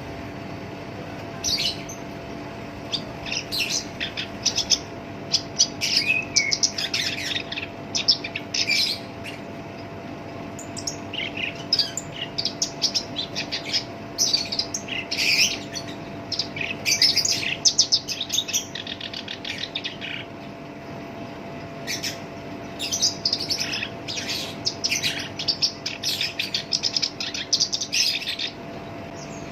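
Black-browed reed warbler singing in long bouts of rapid, harsh, chattering notes, broken by short pauses about ten seconds and twenty seconds in.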